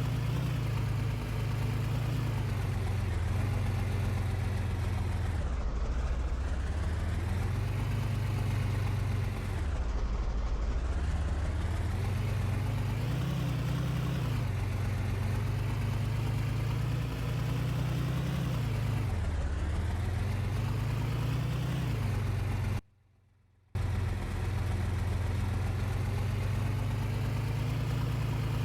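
A vehicle engine running steadily, its pitch dipping and climbing back up several times as the revs fall and rise. The sound cuts out briefly about 23 seconds in.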